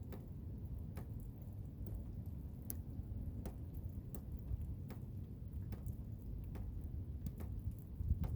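Blizzard wind making a steady low rumble, with irregular sharp ticks about once or twice a second over it.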